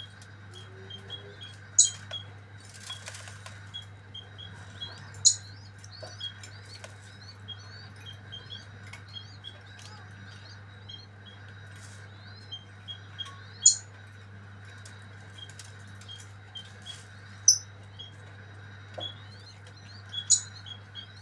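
A bird chirping in short, high peeps that come in quick runs, with five sharp, louder bursts a few seconds apart.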